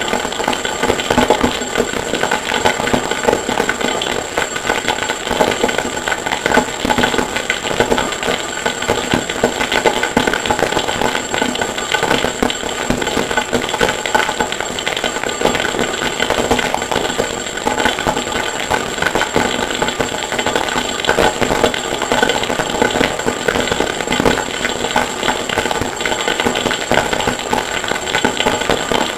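Harsh noise music: a loud, unbroken wall of dense crackling, rattling noise with a steady high whine on top, processed from recordings of forge and anvil work.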